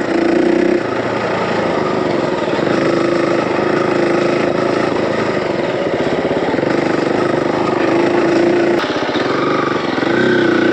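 Dirt bike engine running steadily on a trail ride, its pitch rising and falling a little with the throttle.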